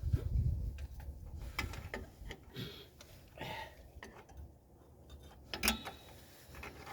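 Small metal clicks and clinks of drum brake hardware (return springs, shoes and adjuster) being handled and fitted, with a low bump at the start and a sharper click near the end.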